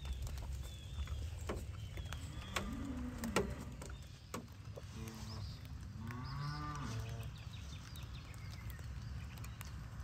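Cow mooing twice with low calls, a short one then a longer one, among cattle gathered round a newborn calf.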